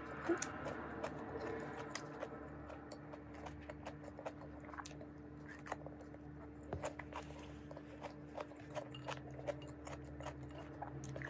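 Close-up chewing and mouth sounds of a person eating stir-fried vegetables, with many small wet clicks and soft crunches. A steady low hum runs underneath.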